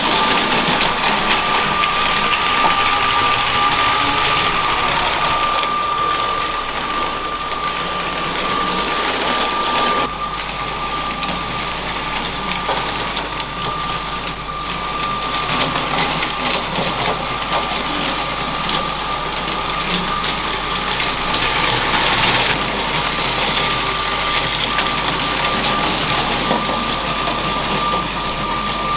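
LEGO train's small electric motor running with a steady high whine, its wheels rattling over plastic track. The sound drops a little about ten seconds in and grows louder again a little after twenty seconds.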